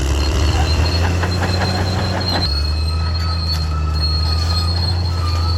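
Caterpillar D6R XL crawler dozer at work: its diesel engine runs steadily while its steel tracks give a high, steady squeal with scattered clanks. The engine note shifts about halfway through.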